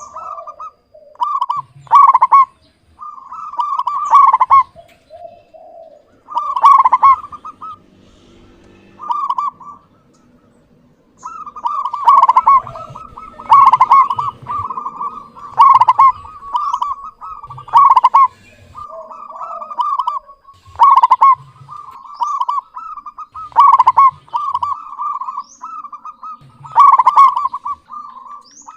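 Zebra dove (perkutut) cooing over and over in short, clear phrases of quick notes, with a pause of a few seconds about a third of the way through.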